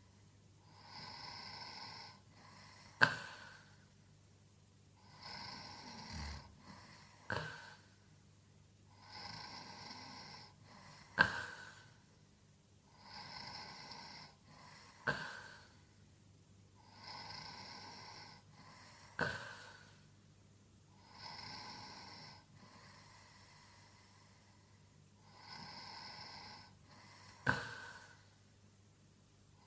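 A sleeping man snoring, with slow, regular breaths about every four seconds. Each breath ends in a short sharp click, the loudest sound in each cycle.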